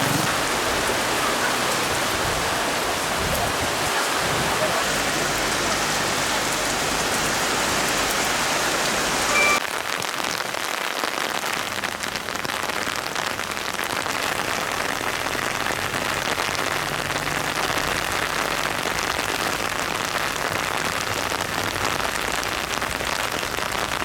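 Heavy rain from a windy rainstorm falling steadily, a dense even hiss. About nine seconds in there is a brief short tone, after which the rain carries on slightly quieter.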